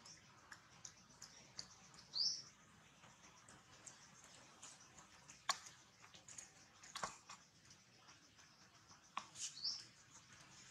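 Faint, scattered high bird chirps, with a short rising call about two seconds in and another near the end, and a few sharp clicks between them.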